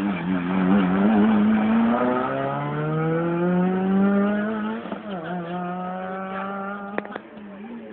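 Rally car engine accelerating hard, its pitch climbing through the revs, with a gear change about five seconds in before it climbs again. Two sharp cracks sound near the end.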